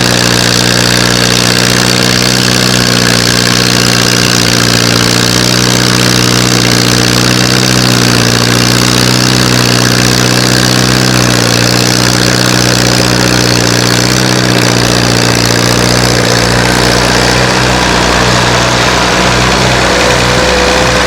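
Antique Allis-Chalmers tractor engine running steadily, its tone shifting a little in the last few seconds.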